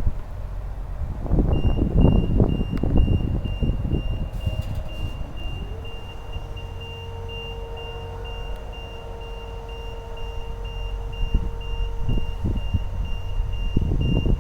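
Vehicle reverse alarm beeping at a quick, even pace over a running engine, whose hum rises in pitch and then holds steady.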